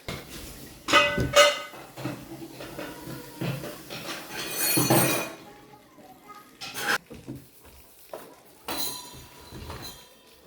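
Metal tools and parts clanking and clinking as they are handled: two loud ringing clanks about a second in, a longer scrape midway, then a few lighter clinks.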